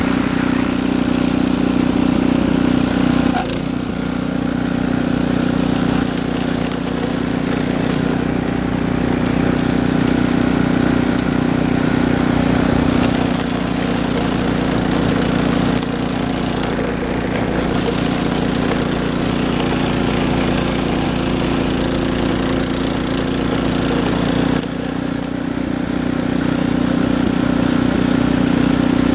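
Snow blower's small engine running steadily under load, dipping in loudness briefly a few seconds in and again near the end.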